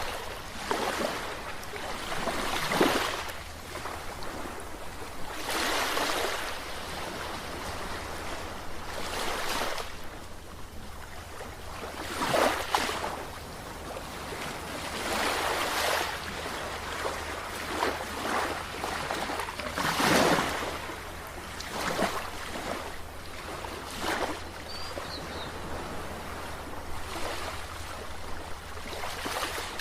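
Sea waves breaking and washing in, a hissing surge swelling and falling away every few seconds.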